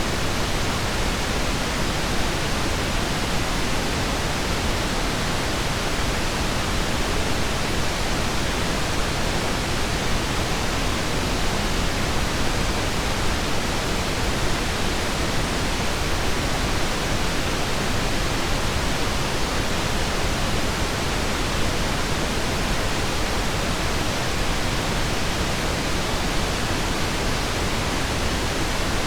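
Steady pink noise: an even, unbroken hiss with no tones, ticks or changes in level.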